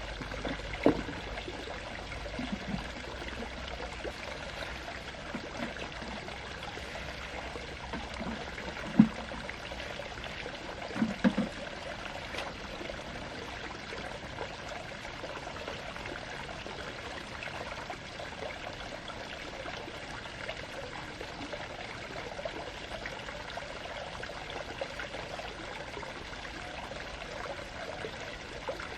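Steady running water, with a few brief light knocks: one about a second in, one around nine seconds, and a quick pair around eleven seconds.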